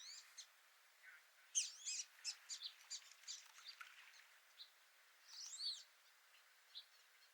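Small birds calling faintly: a quick run of short chirps starting about a second and a half in, then a single arched call a couple of seconds later.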